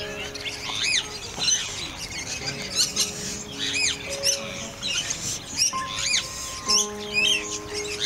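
Many small birds chirping in quick rising-and-falling calls, over background music of sustained chords.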